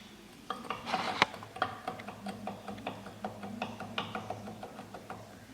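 Irregular small metallic clicks, several a second, as the gear of a Toyota 3L diesel's oil pump is rocked and knocks back and forth in its housing, which has worn loose and is condemned.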